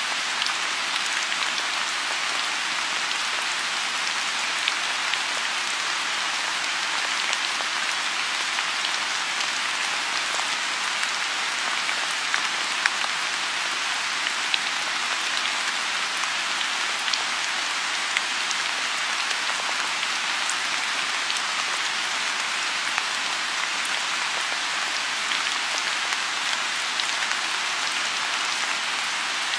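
Steady rain falling on a lotus pond: a dense, even patter with a louder single drop standing out now and then.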